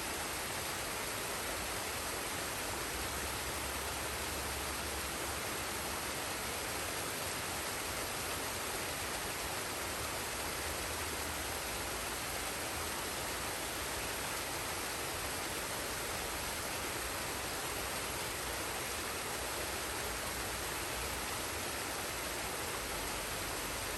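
Forest waterfall and stream: water rushing in a steady, even hiss with no breaks.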